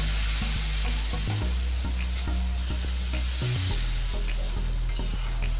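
Hot pan of spiced eggplant pieces, with water just added, sizzling steadily as a metal spatula stirs it, with small scrapes and taps of the spatula against the pan.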